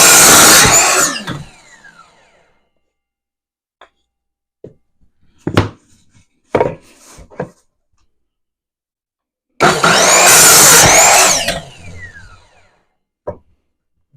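Power saw making two short cuts about ten seconds apart, each about two seconds long, with the motor whine rising as it spins up and falling as it winds down. A few knocks in between.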